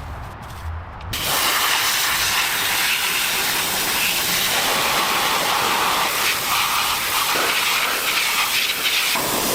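A loud, steady hiss starts about a second in and holds until near the end, stopping briefly just after.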